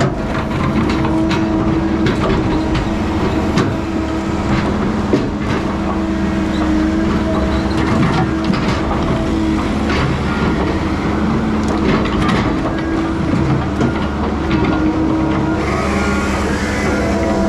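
Heavy diesel logging equipment running steadily, with frequent knocks and clatter through it.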